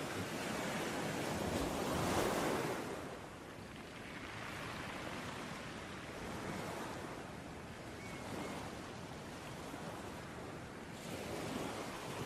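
Ocean waves breaking on a beach: a steady wash of surf, with one wave cresting loudest about two seconds in and another swelling near the end.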